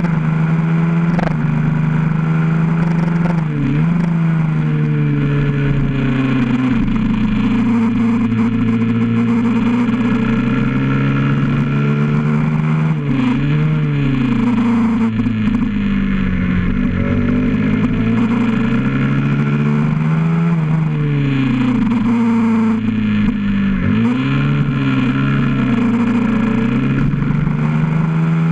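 Honda CBR125R's single-cylinder four-stroke engine heard close up from on board, its pitch climbing and falling lap-wise through the gears, with several brief sharp drops at gear changes and braking.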